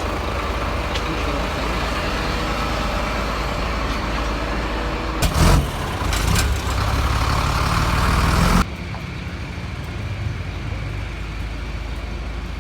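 A motor vehicle's engine running steadily with road noise. There is a loud sudden burst about five and a half seconds in. The sound is louder until nearly nine seconds in, then drops abruptly.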